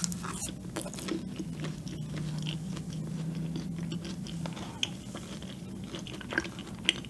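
Close-up chewing of a cream donut with a crunchy feuilletine topping: soft wet chewing with small crunches and clicks. A low steady hum sounds under the chewing and stops about four and a half seconds in.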